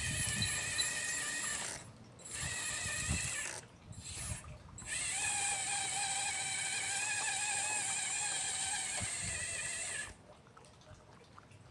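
Radio-controlled model Liebherr 954 excavator's electric motors whining as it is worked. The whine wavers in pitch, cuts out twice briefly, then runs steadily and stops near the end.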